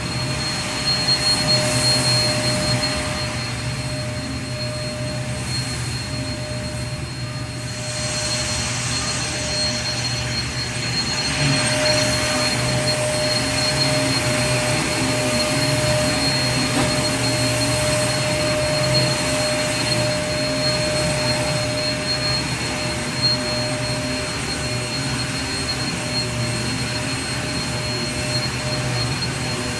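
Vacuum cleaner running steadily: a constant rush of air with a steady whine over a low motor hum. The hiss grows brighter and a little louder about eight seconds in.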